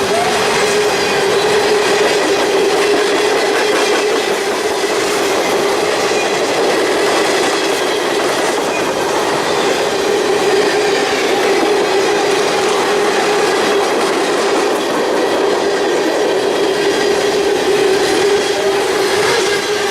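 Train cars rolling steadily past at close range, wheels running over the rails, with a steady ringing tone held underneath.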